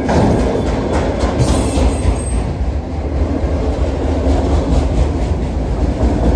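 Freight train rolling past: a steady rumble of the cars and their wheels on the rails.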